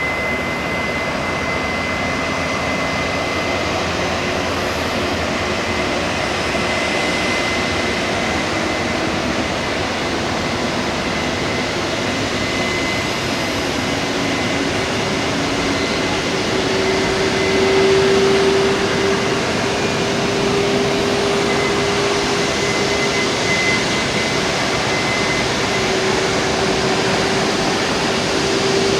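Steady jet noise from an Airbus A340-500 on pushback, a continuous noise with a thin high whine over it. A lower tone climbs in pitch and grows louder about halfway through, then holds, as a turbine spools up.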